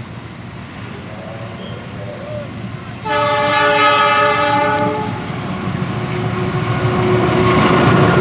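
Diesel locomotive blowing its multi-note horn for about two seconds, starting about three seconds in. Its engine, a steady hum and the rumble of the wheels then grow louder as the locomotive and coaches run past close by.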